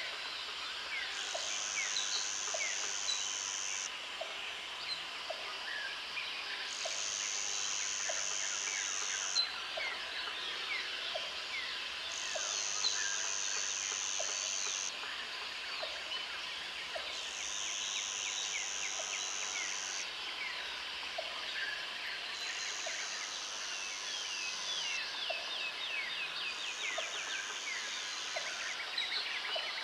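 Tropical forest ambience. High insect buzzing comes in spells of about three seconds, roughly every five and a half seconds, over many birds chirping and calling, with a quick run of calls near the end. A low short note repeats about once a second.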